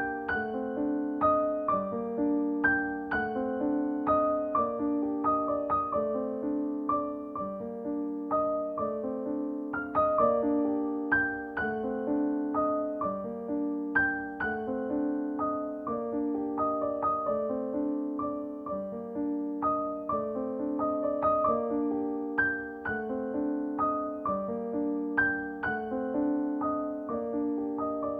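Background piano music, a gentle, repeating pattern of struck notes.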